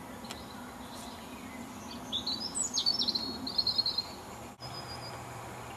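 A small songbird sings one phrase of quick high chirps and downward sweeps ending in a short trill, about two seconds in and lasting roughly two seconds, over steady low background noise.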